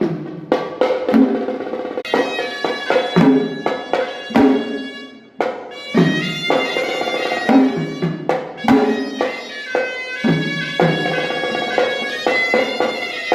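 Traditional drums beaten in an irregular rhythm, joined about two seconds in by a shrill, reedy wind instrument playing a melody.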